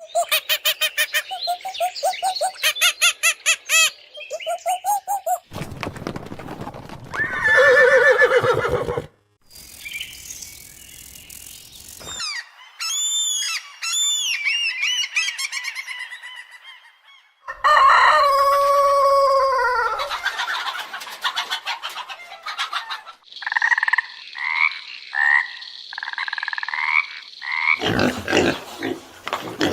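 A string of different animal calls cut one after another, including fast croaking and chicken and other fowl calls, with short breaks between clips.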